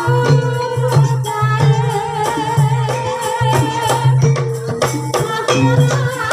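Traditional Javanese gamelan music playing for an ebeg horse-trance dance: ringing metallophone tones, a wavering melody line on top, and a low beat about twice a second.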